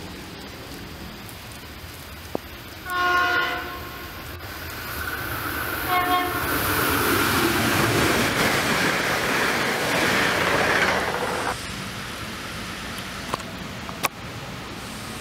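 SEPTA GE Silverliner IV electric commuter railcar sounding its horn, a blast of about half a second and then a short second blast about three seconds later. The train then passes close by with a loud, steady rush of noise that cuts off suddenly.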